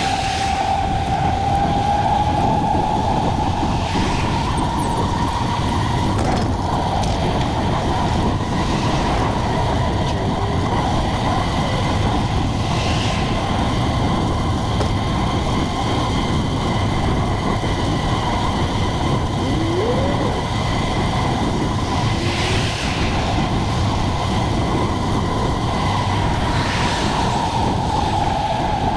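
Steady wind and road noise from a moving bicycle, with a thin, steady whine that rises in pitch in the first couple of seconds and drops again near the end.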